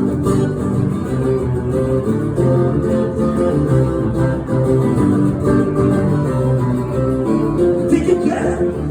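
Acoustic guitar strumming chords in a live song, with a singing voice coming in near the end.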